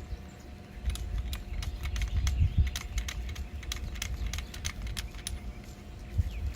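Irregular quick clicks and ticks of a plastic pressure washer hose fitting being threaded onto the spray gun and handled, several a second, over a low handling rumble.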